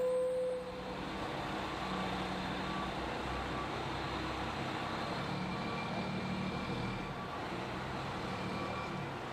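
Street traffic: vehicle engines running and road noise, with faint short beeps repeating.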